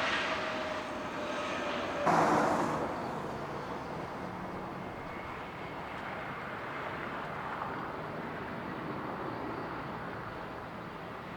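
Jet airliner engines on a takeoff run: steady jet noise with a faint whine, and a short louder rush about two seconds in.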